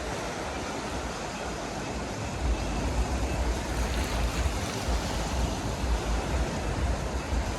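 Black Sea waves washing onto the shore in a steady wash of surf, with wind buffeting the microphone in low gusts.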